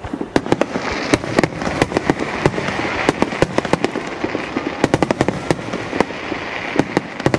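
Aerial firework shells bursting in a rapid barrage: many sharp bangs a second, irregular and overlapping, over a continuous hiss.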